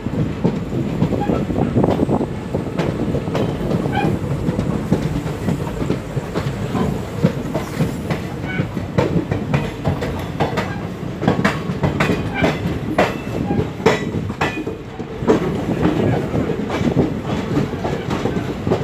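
Train running on the rails: a steady low rumble with the wheels clicking and clattering over rail joints, the clicks thickest in the middle stretch.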